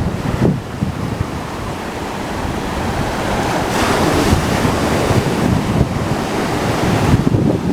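Atlantic Ocean surf washing on the beach, with wind rumbling on the microphone.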